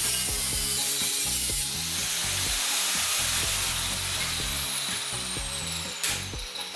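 A power tool cutting the steel motorcycle fender, a steady harsh hiss, over background music with a stepped bass line. A high whine falls in pitch from about four seconds in, and the cutting noise drops away briefly about six seconds in.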